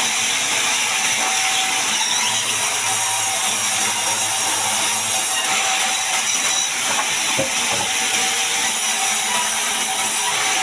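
Sawmill band saw cutting a large mahogany log: a loud, steady, even noise with a faint whine held throughout.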